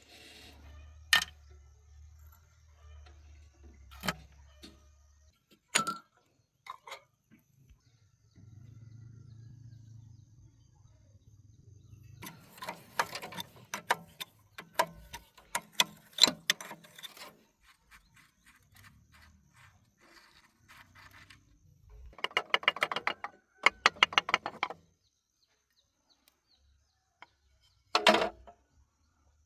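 Hand tools working on the metal parts of a field harrow: scattered single clinks and knocks, with two stretches of rapid clicking, the second about 22 s in, like a ratchet wrench being worked.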